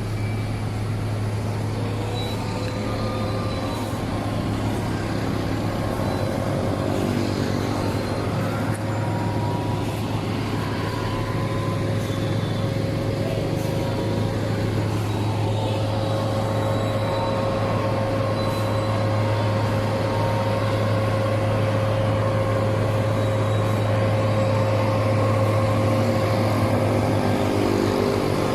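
Heavy truck's diesel engine labouring up a steep grade: a steady low drone with a steady whine above it, slowly getting louder.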